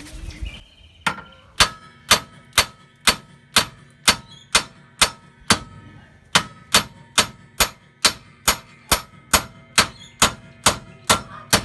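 Steel hammer blows, about two a second, driving the old wheel stud out of the rear wheel hub, each strike ringing briefly off the metal hub.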